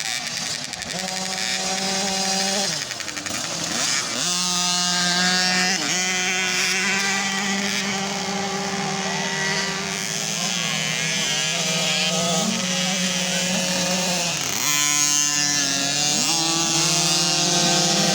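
Motocross motorcycle engines running hard, their note falling off and climbing again as the throttle is shut and reopened, about three seconds in and again near fifteen seconds.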